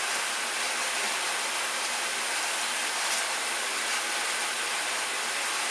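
Steady, even hiss of an electric blower-type appliance running.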